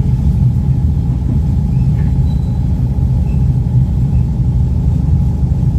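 Steady low rumble inside a moving train's sleeper carriage, the running noise of wheels on rail.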